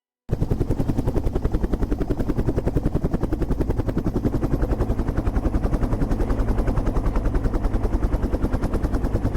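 Helicopter running, its rotor beating fast and evenly at about ten pulses a second; the sound cuts in abruptly just after the start.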